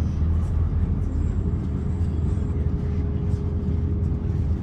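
Steady low rumble inside the cabin of an Airbus A350-900 taxiing, its Rolls-Royce Trent XWB engines at low thrust, with a faint thin hum that rises slightly about two seconds in.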